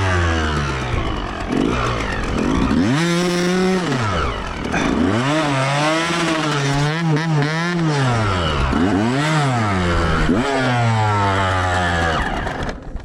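Dirt bike engine revving hard and easing off over and over as it is ridden, its pitch climbing and falling several times, then dropping away near the end.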